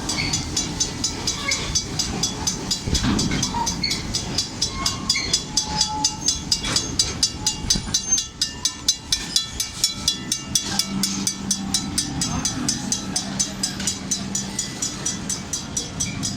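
Railroad crossing bell ringing in rapid, even strikes as the Serengeti Express park train rumbles through the crossing. A steady low tone sounds for a few seconds past the middle.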